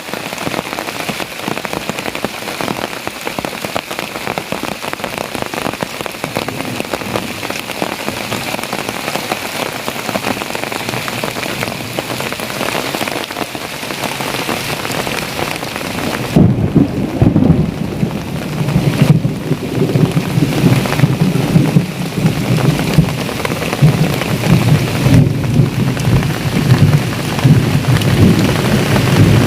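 Heavy rain falling steadily. About halfway through, a deep rolling rumble of thunder sets in and carries on in loud, uneven swells to the end.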